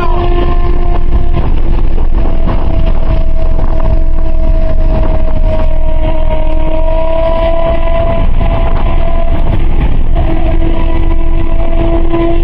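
Car driving at speed, heard from inside: a loud, steady engine drone with road and wind noise underneath.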